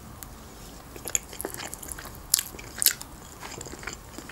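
Close-miked eating sounds of rotisserie chicken eaten with the fingers: chewing and biting with sharp wet mouth clicks, the two loudest about two and a half and three seconds in.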